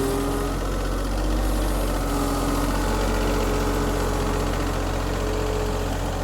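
Tractor engine running at a steady speed, a continuous low hum with a few steady tones over it.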